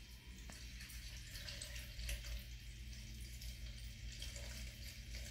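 Water trickling and dripping as a portable twin-tub washing machine drains through its drain hose, over a steady low hum. A single short click about half a second in.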